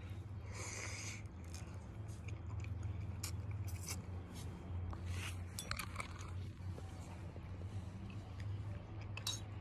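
Close-up chewing and mouth sounds of someone eating zucchini stew scooped up with a tortilla, with scattered soft clicks and scrapes, over a steady low hum.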